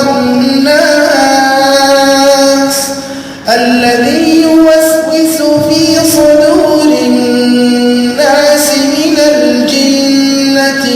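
A male reciter chanting the Quran in melodic tajweed style, drawing out long held notes that slide between pitches. A short pause for breath about three and a half seconds in.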